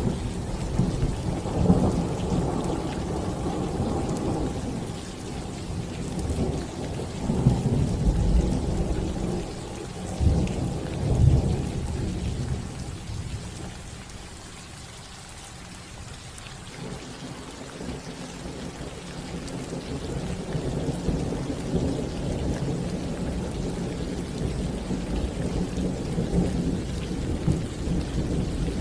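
Thunderstorm: rolling thunder over rain falling on a roof. Several heavy low rumbles come in the first twelve seconds, then a lull about halfway through, and a steady low rumble builds again toward the end.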